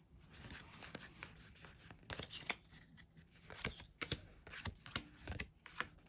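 Pokémon trading cards being handled and flipped through by hand: soft, scattered card slides, slaps and rustles, a few louder strokes about two and a half seconds in and again near four seconds.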